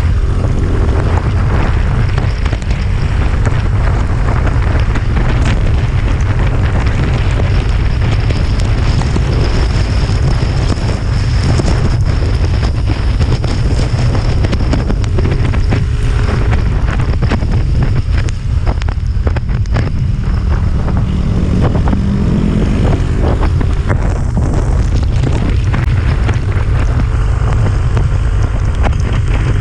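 Heavy wind buffeting on the microphone of a moving motorcycle, a loud steady rumble over road and rain noise. The engine note rises faintly twice, about halfway through and again a few seconds later.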